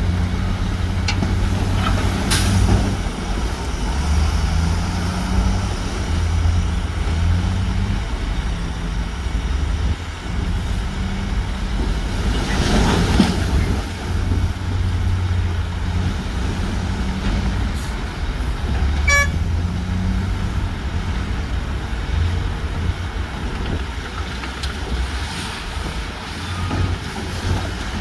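Diesel engines of heavy earthmoving machines, bulldozers and dump trucks, running with a steady low rumble. About halfway through comes a louder rushing burst, and about two-thirds in a brief sharp sound.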